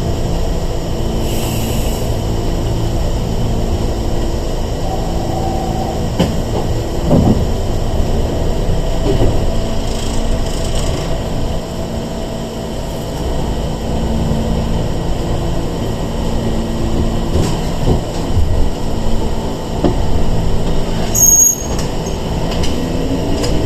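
Inside an ex-Seibu 401-series electric train (Sangi Railway 101 series): a steady low running rumble with a droning hum. A short high-pitched tone comes near the end, and a motor whine starts rising in pitch just at the end as the train picks up speed.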